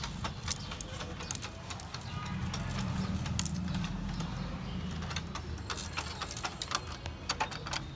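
Plastic toy fire truck being worked as it sprays water: many scattered clicks and taps over a steady low hum.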